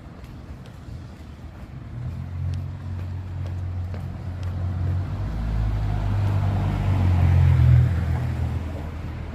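A car approaching and passing on a wet street: its engine hum and tyre hiss build up, peak about three-quarters of the way through, then ease off.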